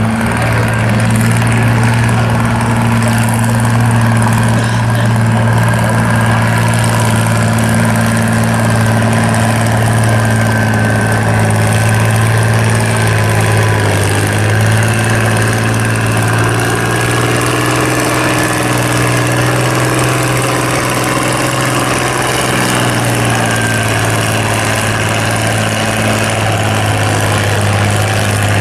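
Antique farm tractor engine running steadily at an even speed.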